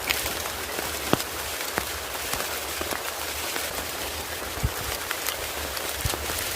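Steady rain falling, with scattered sharp drips and taps of drops landing close by.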